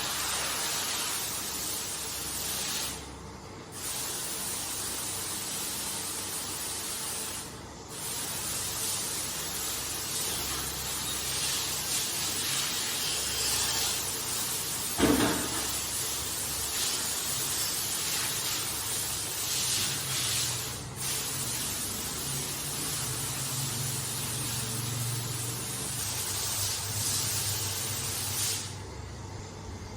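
Hand-held car wash sprayer spraying water onto a carpet: a steady hiss that stops briefly a few times as the trigger is let go. A short sharp sound about halfway through is the loudest moment, and a low hum joins in the second half.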